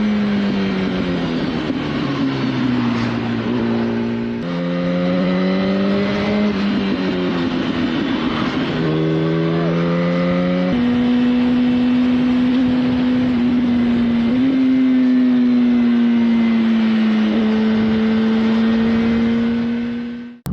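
Motorcycle engine running under way, its pitch sinking, jumping up and rising through several quick changes in the first half, then holding a nearly steady note with small steps for the rest before cutting off abruptly.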